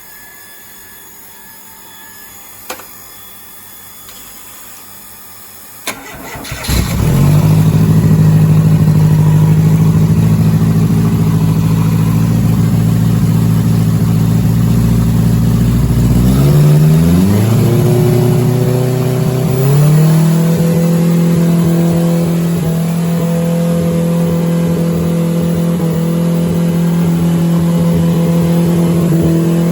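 Fuel-injected 750 Formula racing engine on a dynamometer: after a few clicks it starts about six seconds in and runs steadily, is revved up twice in quick steps around the middle, then holds a slightly higher steady speed.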